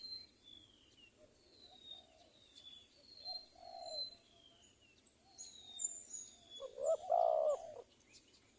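Spotted doves (tekukur) cooing in short low phrases, the loudest coo about seven seconds in, over high thin chirps of small birds.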